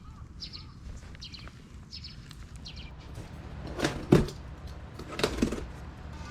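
A small bird chirping four times at an even pace, followed by a few sharp knocks or clatters about four and five seconds in.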